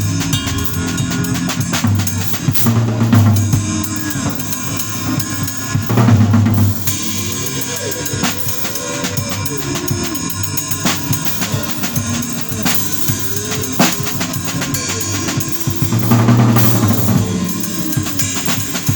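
Drum kit and bass playing together, with busy kick drum, snare and rimshot strokes over a bass line. The drums swell louder about three seconds in, again around six seconds, and near the end.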